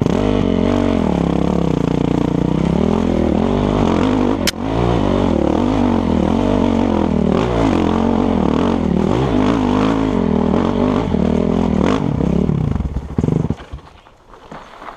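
Dirt bike engine running hard, its pitch rising and falling again and again as the throttle is opened and closed, with one sharp click about four and a half seconds in. The engine sound drops away sharply near the end.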